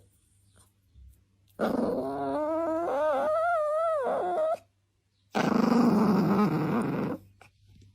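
A pet animal vocalizing: a drawn-out call with a wavering pitch, then after a short gap a lower, rougher growl. Each sound stops abruptly.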